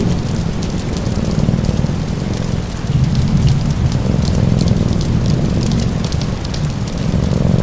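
Steady rain mixed with a crackling fire: a continuous hiss of rain over a low rumble, with sharp crackles and pops scattered throughout.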